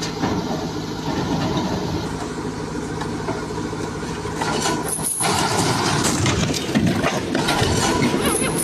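Heavy machine's engine running steadily. About five seconds in the sound changes to a rougher, noisier running.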